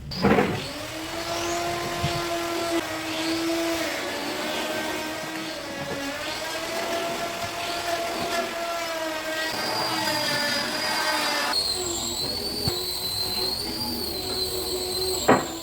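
Electric woodworking power tool running with a steady whine that dips slightly in pitch now and then. A second, higher-pitched whine joins about three-quarters of the way through, and there is a sharp knock at the start and another near the end.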